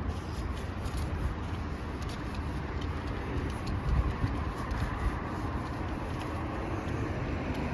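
Steady low rumble and hiss of a rainy city street with car traffic, with a few faint ticks over it.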